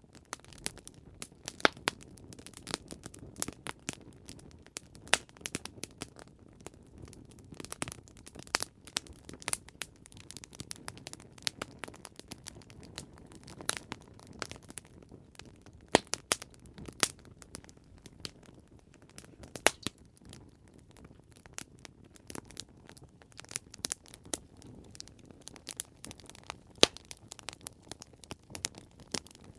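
Campfire crackling: irregular sharp pops and snaps of burning wood, some much louder than others, over a low steady rumble of the flames.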